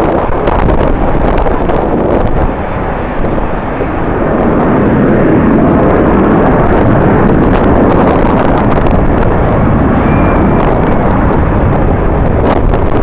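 Jet airliner engine noise that swells about four seconds in and then holds, mixed with wind buffeting the microphone.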